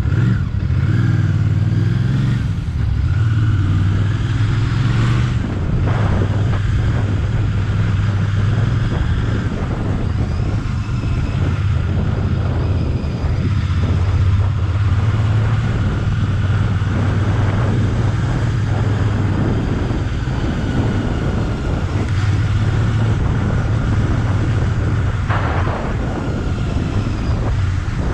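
Royal Enfield Bear 650's 648 cc parallel-twin engine running while the motorcycle is ridden, with wind noise on the onboard microphone. The engine note eases off and picks up again several times as the throttle changes.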